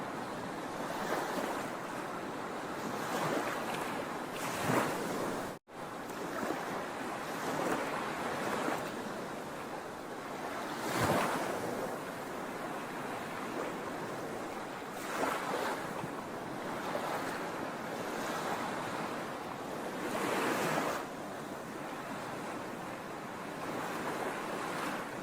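Sea waves washing onto the shore: a steady rush of surf that swells as a wave breaks every four to five seconds, the loudest about eleven seconds in. A momentary dropout cuts the sound a little after five seconds.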